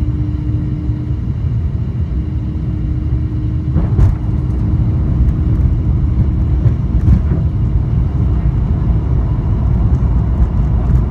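Airbus A350-900 cabin noise in flight: a steady low rumble of airflow and engines with a faint steady hum, and a single sharp click about four seconds in, after which the rumble grows slightly louder.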